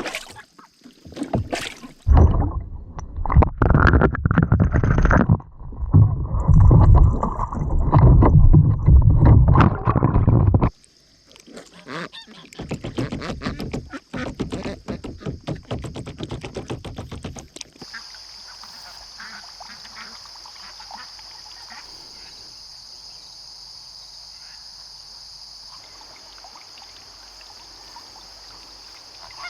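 Domestic ducks and geese calling together, a flock quacking and honking. It is loudest and densest for the first ten seconds or so, then thins out and quiets down after about eighteen seconds, leaving a steady high whine in the background.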